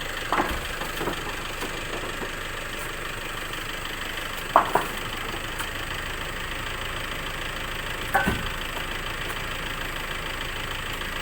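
An engine running steadily, with three short sharp knocks: about half a second in, near the middle, and about three-quarters through.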